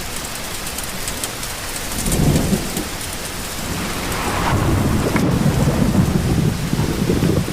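Steady rain with thunder rumbling: a short roll about two seconds in, then a longer, louder roll from about halfway through.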